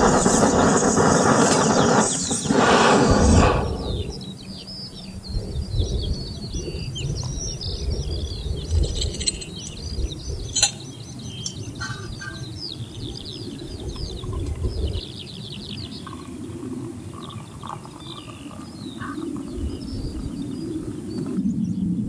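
A loud, even rushing noise for the first three and a half seconds, then an abrupt change to small birds singing: dense phrases of quick, high, falling notes over a low, uneven rumble. There is one sharp click about ten seconds in.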